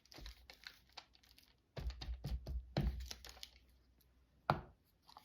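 Paper and tape being handled on a desk: rustling and crinkling with light clicks and soft knocks, and one sharper tap near the end.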